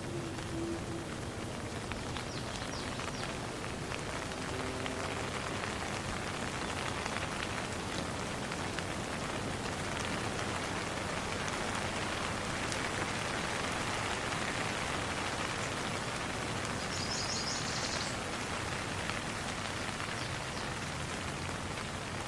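Steady rain falling, an even patter with no letup. A brief run of high chirps sounds about three-quarters of the way through.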